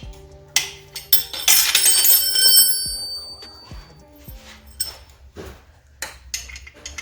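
Metal tools and parts clinking together, with a ringing metallic clatter about a second and a half in and a few lighter knocks afterwards, over background music.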